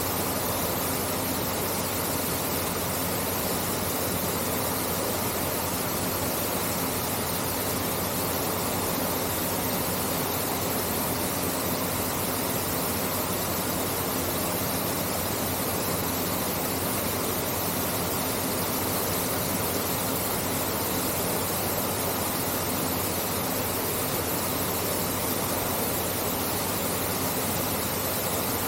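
Artificial-rock waterfall pouring into an indoor pool, a steady even rush of falling water.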